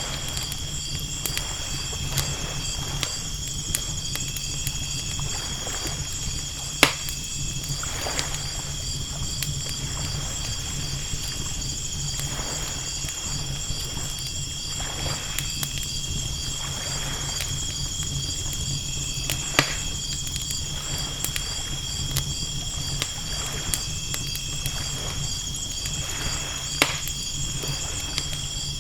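Night-time seaside ambience: ocean waves washing in, a campfire crackling with three sharp pops, and a steady high chirring of night insects.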